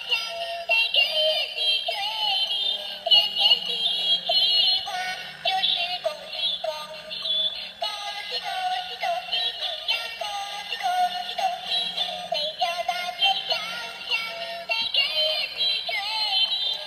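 A repaired toy's small speaker playing a tinny electronic jingle with synthesized singing, working again after the repair.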